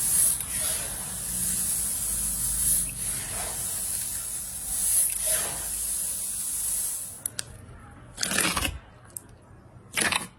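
Slime being squished and stretched by hand: a hissy, sticky sound that swells every couple of seconds. About seven seconds in it cuts to a quieter take with two separate crackly squishes.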